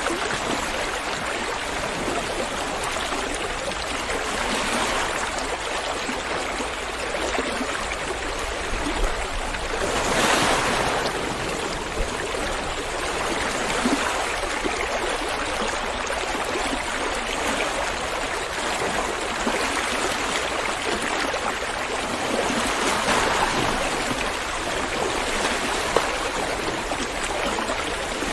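River water flowing with a steady rushing, swelling louder about ten seconds in and again a little past twenty seconds, with a few brief sharp splashes.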